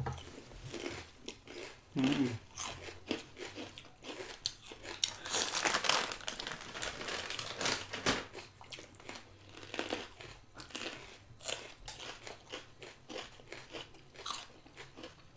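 Close, crunchy biting and chewing of a sweet pepper stuffed with soft cheese and topped with Kurkure corn puffs, as many quick crisp crunches that are thickest about a third of the way in.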